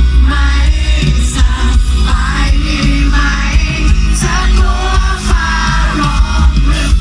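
Live pop-rock band playing loudly with singing over it: a sung melody above heavy bass, drums and guitar, as heard in a concert crowd.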